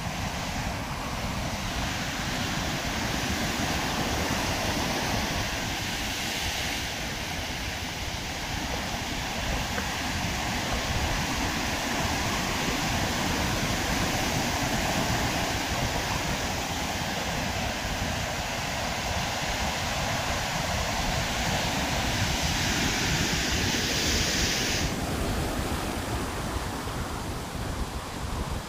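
Heavy surf breaking, with strong wind rumbling on the microphone. A bright steady hiss sits over it and cuts off sharply near the end.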